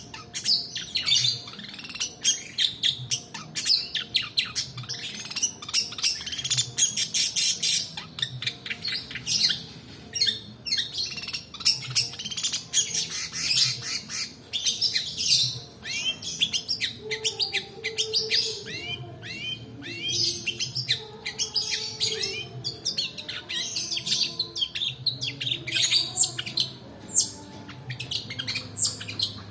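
Long-tailed shrike (pentet) singing a dense, fast stream of sharp chirps and rapid falling notes run together into rolling trills. It is a 'pancingan' bait song, played to coax lazy caged birds into singing.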